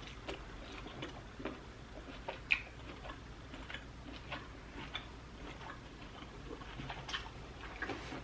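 A person chewing seafood: faint, irregular wet clicks and smacks of the mouth, with a slightly sharper click about two and a half seconds in.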